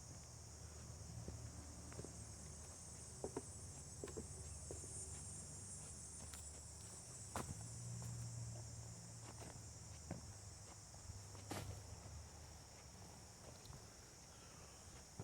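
A faint, steady, high-pitched insect chorus, with scattered soft clicks and snaps of footsteps on a forest path, over a low, steady rumble of distant road traffic.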